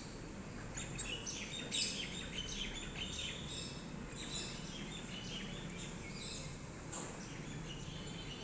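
Pet parrots chirping: a busy run of short, high chirps for a few seconds, thinning out to scattered chirps later, over a steady low background noise.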